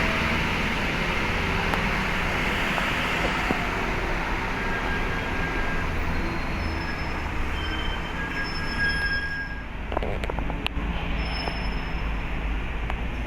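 Heavy diesel engines running with a steady low rumble, with a few short high squeals and some sharp metallic clicks about ten seconds in.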